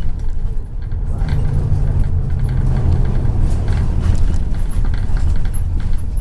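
Inside a moving MAZ 103 bus: steady low engine drone and road rumble, with light rattling from the bus's fittings.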